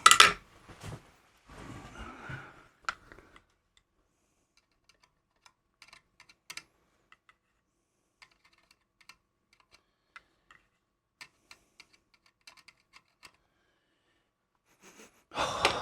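Faint, scattered small clicks and taps of tools and small parts being handled on a workbench, irregular and spaced out, with a brief rustle of handling near the start.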